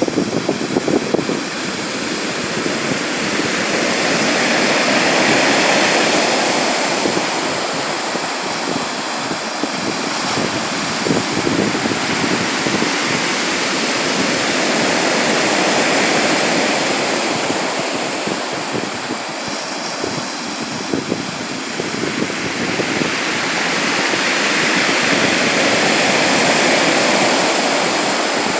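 Sea waves surging and washing, the roar swelling and easing about every ten seconds.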